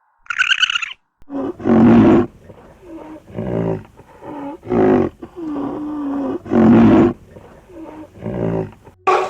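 A large animal giving a run of about eight deep roars and growls, some short and some drawn out, the loudest about two seconds in and again near seven seconds. A short high-pitched call ends the first second before the roaring starts.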